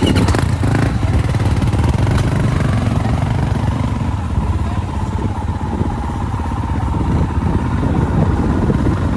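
Dirt bike engine running at a steady pace, a loud, even low rumble.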